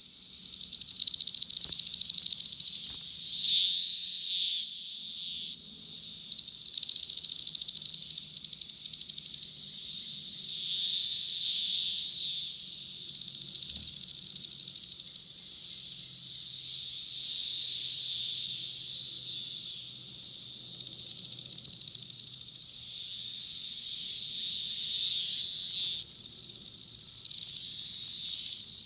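Chorus of Brood X periodical cicadas: a continuous high-pitched buzz, with nearby calls swelling loud and fading back every several seconds.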